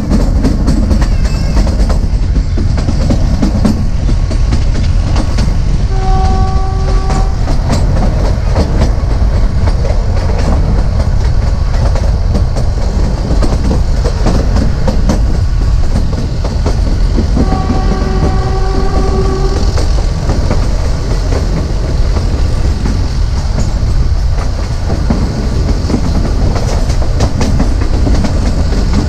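Narrow gauge train running along the track, wheels clattering over the rails with a steady low rumble. The ZDM4A diesel locomotive's horn sounds twice, a short blast about six seconds in and a longer one past the middle, and starts again at the very end.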